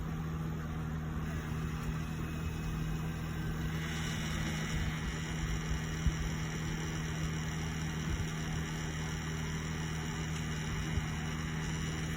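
Steady electrical hum with a high whine joining in about four seconds in, and a single click near the middle.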